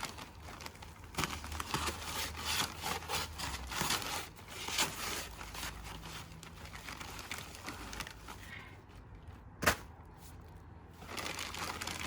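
Ballast and cement being scooped and worked, giving irregular gritty crunching and scraping strokes, with a single sharp knock about ten seconds in.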